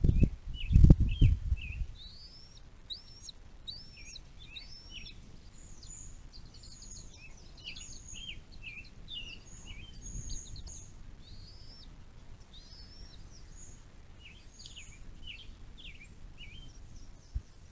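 Loud low rumbling for the first two seconds, then birds chirping with many short, quick notes and upward-sweeping calls over a faint steady background.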